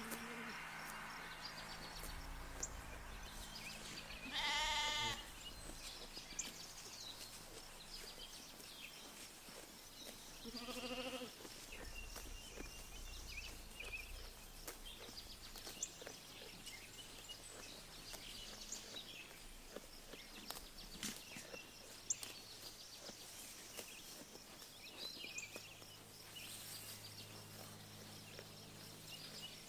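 Sheep bleating twice: a louder, higher, wavering bleat about four seconds in, then a lower one around eleven seconds. Small birds chirp now and then over the quiet open-field background.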